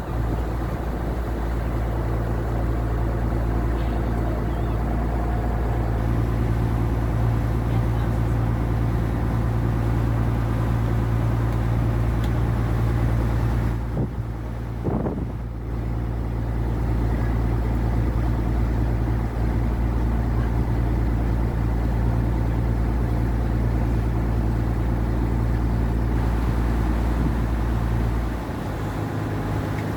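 Boat engine running at a steady drone, with the low hum dropping away a little before the end.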